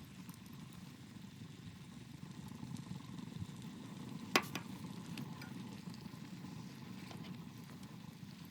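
Wood fire crackling over a steady low rushing noise, with one sharp pop about four seconds in.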